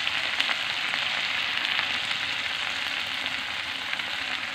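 Sliced chillies, shallots, garlic, galangal and lemongrass sizzling steadily in hot oil in a wok as they are stir-fried, with scattered faint pops.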